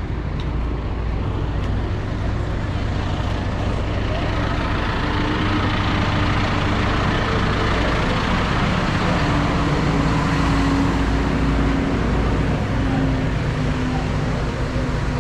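Tractor diesel engine running steadily, growing a little louder through the middle of the stretch.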